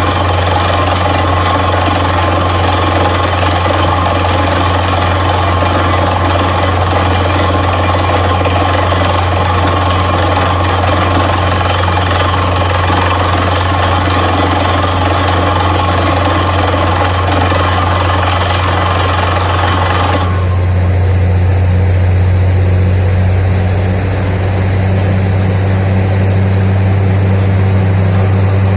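Borewell drilling rig running loud and steady, its heavy engine drone under a dense rushing noise. About twenty seconds in the rushing noise cuts off abruptly, leaving the engine drone alone, and it returns right at the end.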